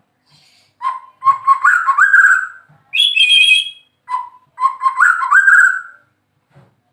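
White-rumped shama (murai batu) singing loud, clear whistled phrases with rising slurred notes. The same phrase comes twice, with a higher ringing note between them.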